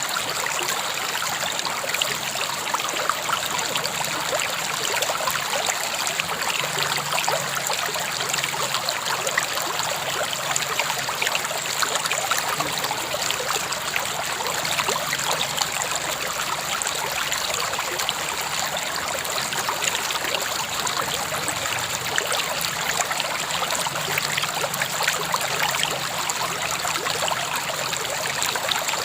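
Steady rush and trickle of a flowing river or stream, with many small splashes and drips over an even hiss.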